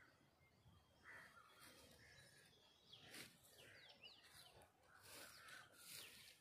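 Near silence of an open field, with faint small bird chirps and a few soft rustles.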